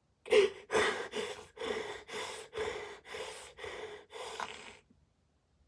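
A person sobbing: a run of about eight short, gasping breaths, roughly two a second, growing fainter and stopping about five seconds in.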